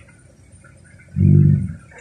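Heavy diesel machinery engine giving a brief loud low burst about a second in, lasting about half a second over a quieter low rumble.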